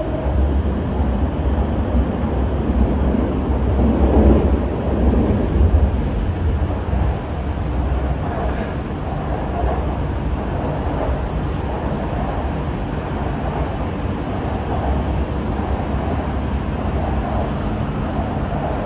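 Interior running noise of a Chengdu Metro Line 7 six-car A-type train underway between stations: a steady low rumble with wheel and track noise.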